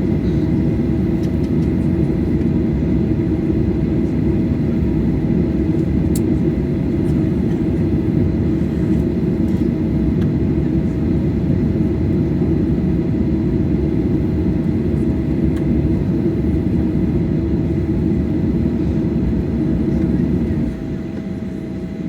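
Steady low drone inside the cabin of a Boeing 737-800 airliner, with a faint steady whine over it; the drone drops a little in level near the end.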